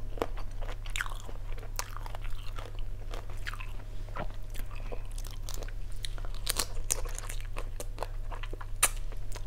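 Close-miked chewing and biting of shell-on grilled shrimp, with irregular crisp clicks and crunches and wet mouth sounds.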